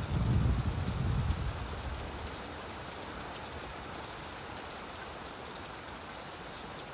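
Steady rainfall on a surface. A low rumble of distant thunder fades out about two seconds in.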